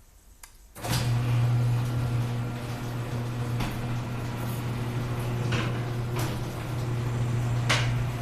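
Chamberlain garage door opener starting up about a second in and running steadily, its motor humming with a few scattered clicks as it raises a 9-foot sectional overhead door that rolls smoothly, though the door is out of balance and its springs need adjusting.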